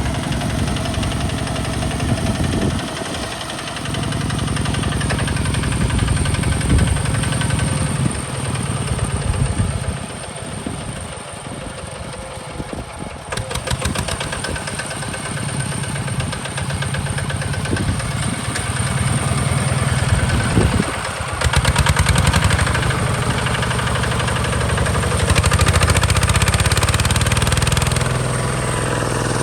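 Hinota HG Gold 155 DI tractor's diesel engine running steadily, its level dipping for a few seconds about a third of the way through and rising again later.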